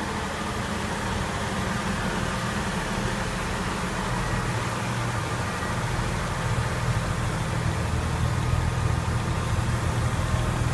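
The underfloor diesel engines of two coupled Class 142 'Pacer' railbus units idling with a steady low hum, which grows a little louder about halfway through.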